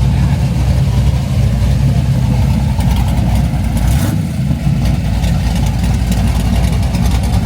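Chevrolet Chevelle engine running loudly and steadily at idle, a low rumble; a nice healthy sound.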